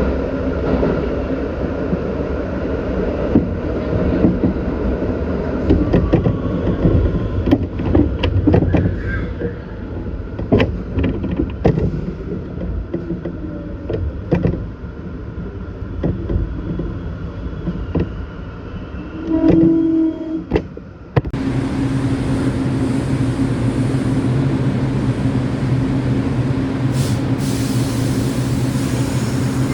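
New York City Subway train running on the track: a loud rumble of wheels with many sharp clacks over rail joints. About two-thirds through the sound changes abruptly to a steadier hum with a low steady tone, with faint high squeals near the end.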